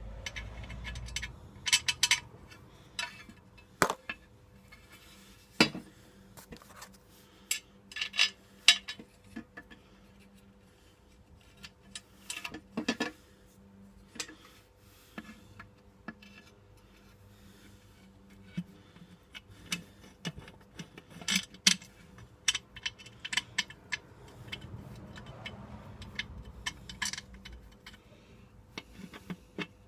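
Hand tools and small metal parts clinking and tapping irregularly, in short clusters of sharp clicks, over a faint steady hum.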